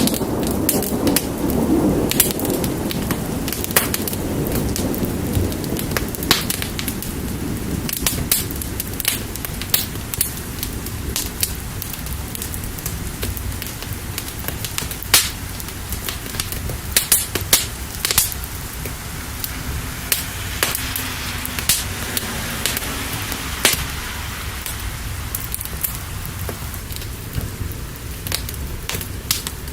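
Wood fire crackling with frequent sharp pops over a steady wash of rain, with a low rumble of thunder fading over the first few seconds.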